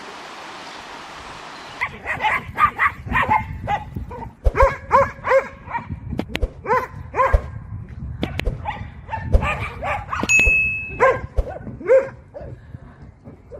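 A dog barking over and over in quick, short barks, starting about two seconds in after a stretch of steady background noise. A brief steady ding sounds near the middle.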